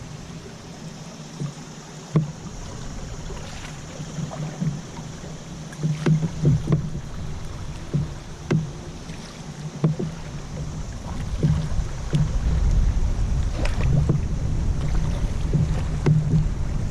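Scattered light knocks and bumps on a canoe's hull at uneven intervals, with water around it; a low rumble, like wind on the microphone, builds from about eleven seconds in.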